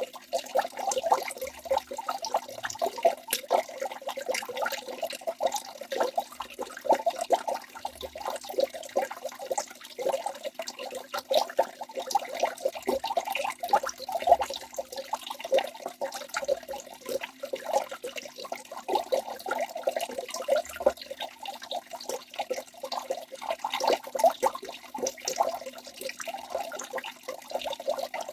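Waterfall rushing: a steady, unbroken wash of splashing water.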